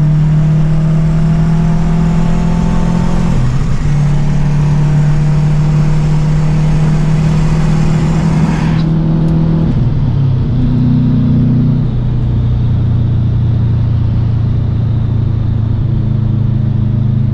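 2008 Subaru STI's turbocharged 2.5-litre flat-four running through an Invidia catted downpipe and N1 exhaust while driving. The steady note breaks briefly twice, about three and a half and ten seconds in, then settles to a lower steady drone. A high hiss over it stops abruptly about nine seconds in.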